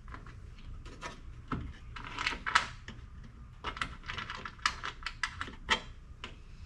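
Irregular light clicks and taps of hand tools and fasteners against a steel door armor panel as it is worked on the door, with a few sharper taps about two and a half seconds in and near the end.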